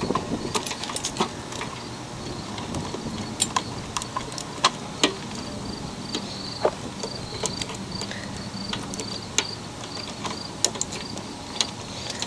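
Irregular sharp clicks and taps of hands and tools on metal as the old blade brake cable is unhooked from a Yard Machines walk-behind mower, with insects chirping in the background.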